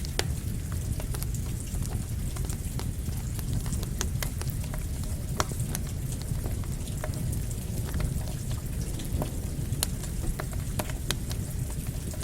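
Campfire crackling with irregular sharp pops, over steady rain and a deep, even rumble.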